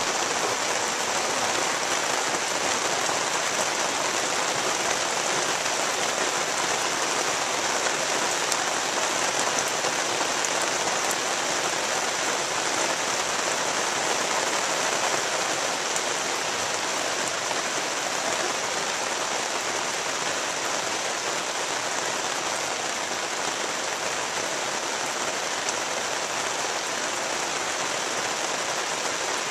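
Steady rain falling: an even, unbroken hiss with a few faint sharper ticks of single drops.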